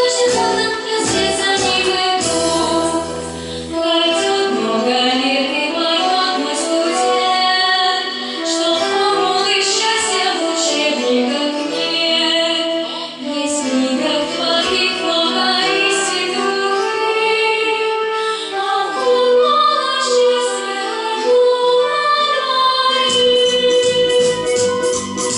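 A song with a woman singing over instrumental backing. The low bass drops out a few seconds in and comes back near the end.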